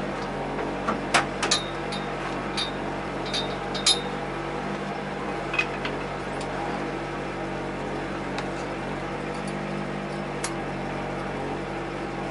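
Volvo 242 rally car's engine idling steadily, heard from inside the cabin, with a few sharp clicks in the first four seconds.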